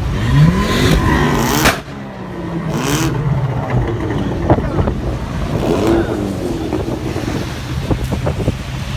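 Sports car engine revving hard, its pitch rising for about a second and a half, then cut off by a sharp loud crack; a second crack follows about a second later. Engines keep running underneath, with another rev rising around six seconds in.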